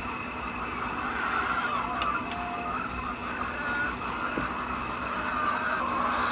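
A flock of laying hens clucking and calling together, many short wavering calls overlapping, over a steady mechanical hum.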